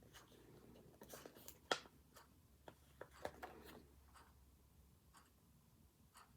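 Faint desk sounds of hands working on a paper planner: paper rustling and scratching, with a handful of small clicks and taps, the sharpest just under two seconds in.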